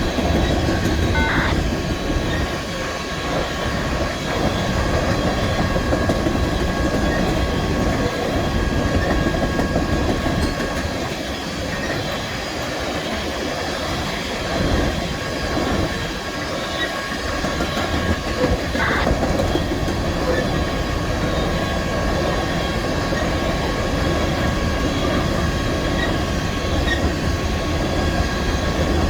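BNSF train rolling past: a steady rumble of cars and wheels on the rails, with a faint, steady high wheel squeal and an occasional click from the wheels.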